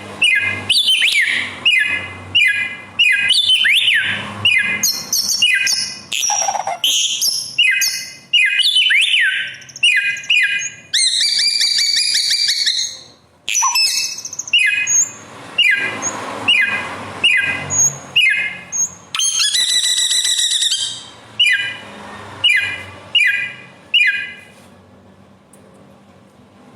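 Bare-throated whistler (Kancilan Flores, Samyong) singing a loud, varied song: quick series of short repeated notes mixed with gliding whistles and two longer buzzy trills. The song stops near the end.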